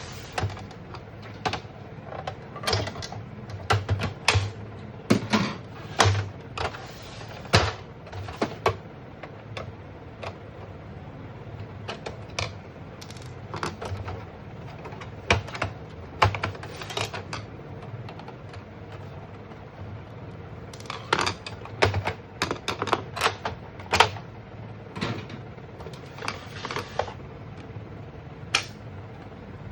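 Irregular sharp clicks and knocks, like hard parts being handled and worked on. They come in quick clusters with short gaps between them, over a faint steady hum.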